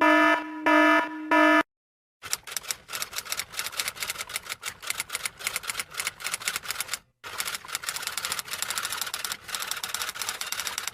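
Rapid typing, a dense run of key clicks lasting about five seconds, a short break, then about four seconds more. Before it, a pitched buzzer-like tone sounds in a few short pulses.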